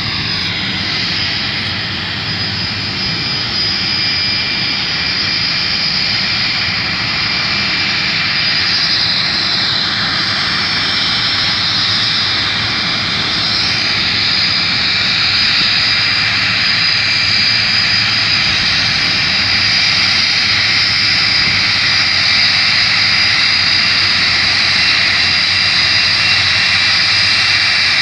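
Jet engines of an arriving British Airways Boeing 747-400 (four Rolls-Royce RB211 turbofans): a steady high whine over a low rumble, growing slowly louder as the airliner approaches, with the whine shifting slightly in pitch about halfway through.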